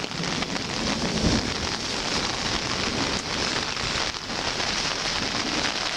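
Heavy rain pouring steadily, pattering on a large umbrella held overhead.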